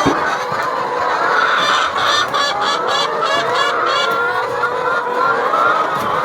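A flock of domestic poultry calling, many overlapping calls at once, with a quick run of repeated high chirps in the middle.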